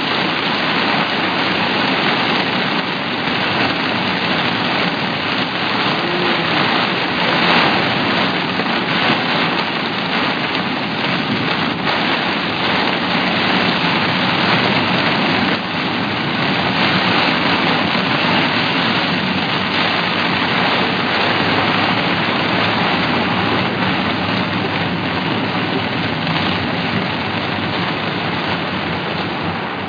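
Heavy rain of a thunderstorm pouring down steadily, a dense hiss of drops.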